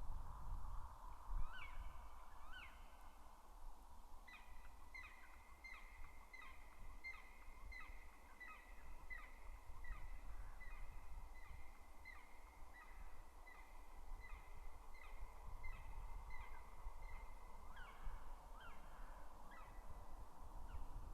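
Black woodpecker calling: a long series of loud, evenly spaced, falling notes, about two a second, with a few longer drawn-out calls before and after the series. A low wind rumble runs underneath.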